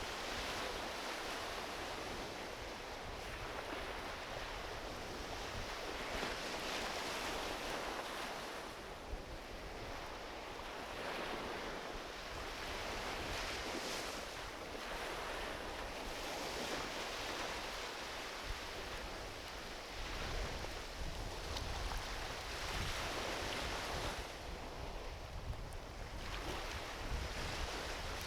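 Small ocean waves washing onto a beach, the wash swelling and easing every few seconds, with a few sharp pops from a driftwood campfire and a low rumble of wind on the microphone.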